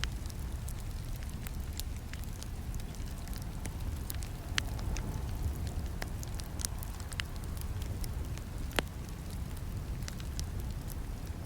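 Campfire burning, with irregular crackles and sharp snapping pops over a steady low rumble of the flames; two louder pops stand out, one about halfway through.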